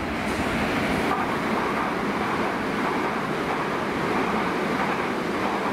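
Electric passenger train running past, its wheels on the rails making a steady rolling noise that builds just before and then holds at full loudness.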